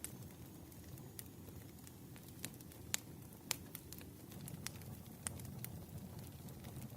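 Campfire crackling: a low, steady rush of burning with scattered sharp pops, the loudest about three and three and a half seconds in.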